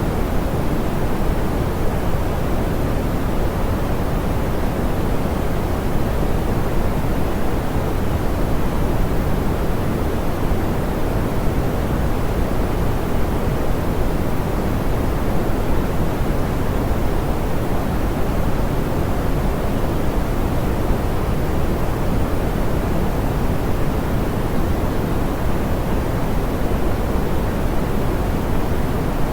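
Steady pink noise: an even, unchanging hiss weighted toward the low end and rolled off in the highs, a soft, smoothed sound.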